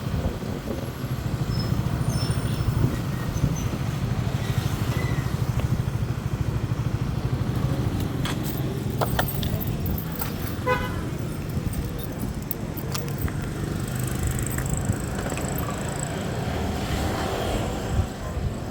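A road vehicle running steadily, with its engine hum and road noise throughout, and a few light clicks and rattles around the middle.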